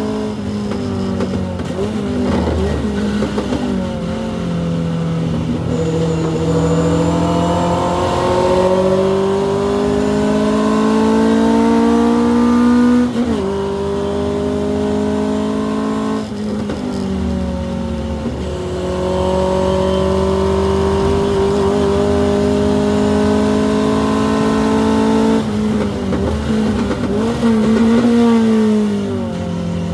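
Hillman Avenger race car's four-cylinder engine heard from inside the car under hard racing use. The pitch climbs steadily and falls away sharply twice, about halfway through and again near the end, as it goes through gear changes and lifts.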